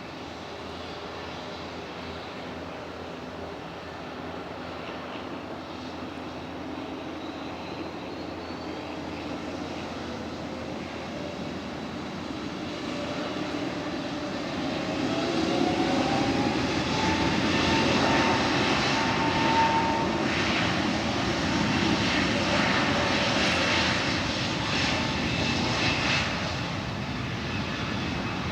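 Airliner engines building up, with a rising whine about halfway through, then running loud for about ten seconds before easing near the end, as an aircraft powers up on the runway.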